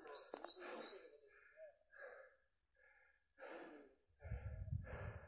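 A songbird sings a quick run of about five high chirps near the start, over faint breathing and rustling.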